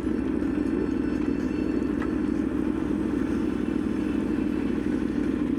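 Aprilia Tuono V4 motorcycle's V4 engine running at a steady cruising speed, heard as an even, unbroken drone.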